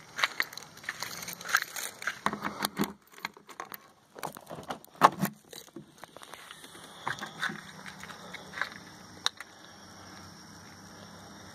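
Footsteps and scattered clicks and knocks of keys and hands working the rear hatch lock of a 2010 Dodge Viper, with one sharp click about five seconds in. After that, fewer ticks over a faint steady hum.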